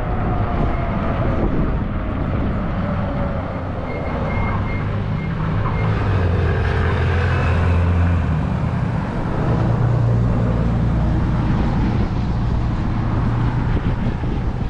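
Steady rush of wind and road noise from riding a 20-inch fat tire e-bike, with a low drone swelling in the middle as a motor vehicle passes.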